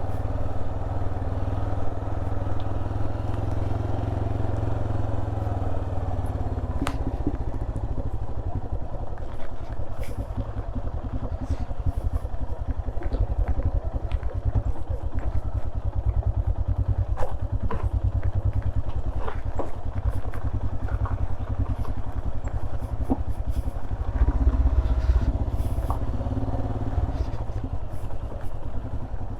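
Royal Enfield Himalayan's 411 cc single-cylinder engine running steadily as the motorcycle rides over a rough, broken road, with scattered clicks and knocks from the bike over the bumps. The engine swells louder briefly near the end.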